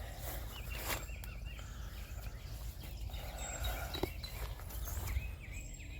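Birds singing outdoors, one repeating a short chirping phrase twice, over a steady low rumble.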